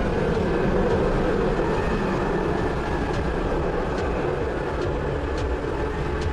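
Jet engines of the Soviet ekranoplan running steadily, a loud, even, dense engine noise.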